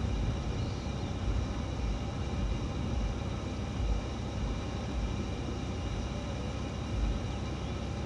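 A motor running steadily: a low rumble with a constant hum over it.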